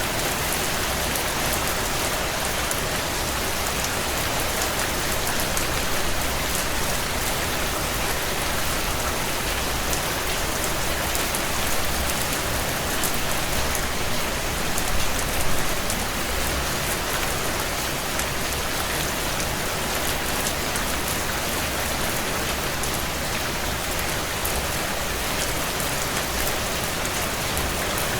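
Heavy rain falling steadily on window glass, with scattered small crackles from a fire in a fireplace.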